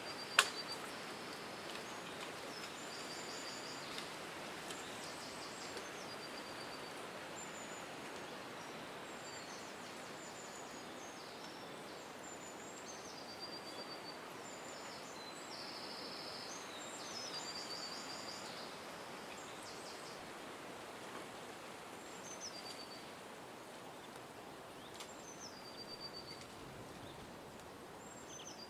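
Small birds calling in short high chirps and quick falling whistles, repeated every second or two, over a steady background hiss. One sharp click just after the start.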